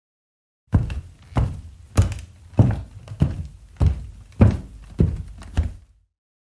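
Heavy stomping footsteps, nine dull thumps at an even walking pace of a bit under two a second, starting about a second in.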